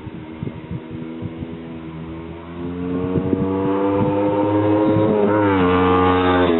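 Honda CB125 twin's four-stroke parallel-twin engine firing unevenly at low revs, then, about two and a half seconds in, picking up and revving steadily higher, with a quick blip near the end before the revs drop back.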